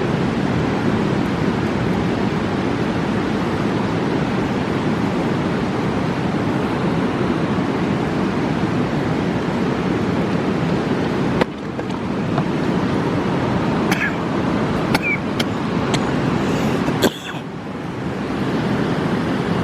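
Fast mountain river rushing in a steady roar of water. The rush drops suddenly in level twice, and a few sharp clicks sound just before the second drop.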